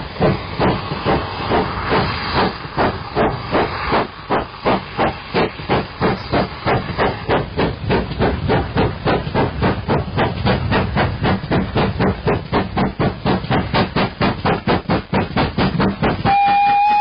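Steam locomotive chuffing, a regular beat of exhaust puffs that speeds up from about two to about four a second as it gathers pace. Near the end a steady whistle tone starts.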